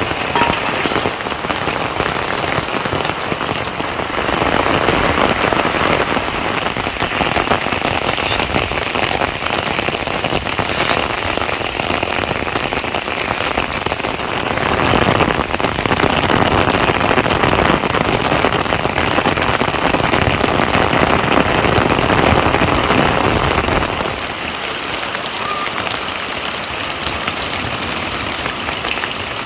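Steady rain falling, a dense hiss of drops with no pauses. It grows a little louder a few seconds in and drops back about 24 seconds in.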